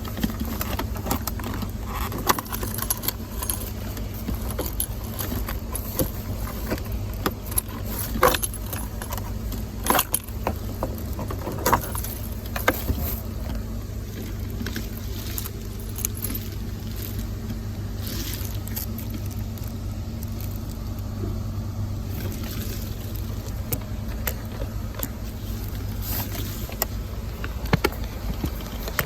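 Car keys jangling, with sharp metal clicks as a key is worked in a Cadillac's ignition lock cylinder, over a steady low hum.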